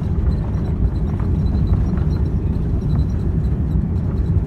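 Boeing 787-9's engines in reverse thrust during the landing rollout, heard from inside the cabin: a loud, steady low rumble mixed with runway noise.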